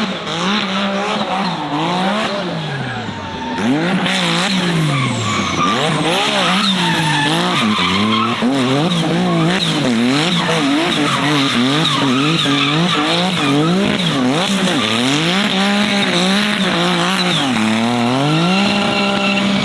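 A car drifting: the engine revs up and down over and over, about once a second, while the tyres squeal and skid. Near the end the revs rise and hold at a steady note.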